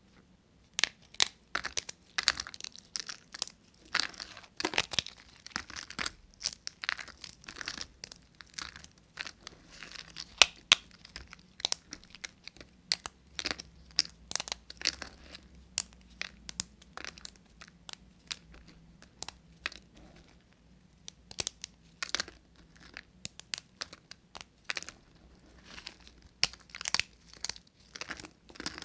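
Dry bar soap being cut with a knife: a dense, irregular run of sharp crackles and crunches, starting about a second in.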